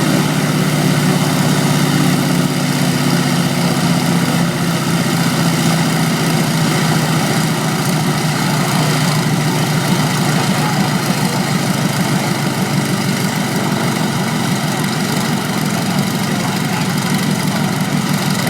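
Aeroplane engine running at a steady low speed, with a fast, even firing beat.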